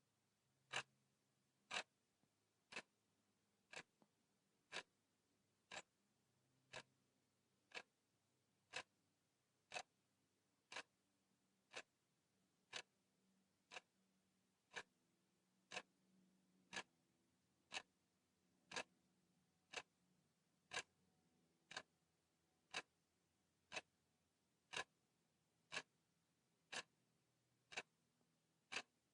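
Steady clock-style ticking of a countdown timer, one sharp dry tick each second.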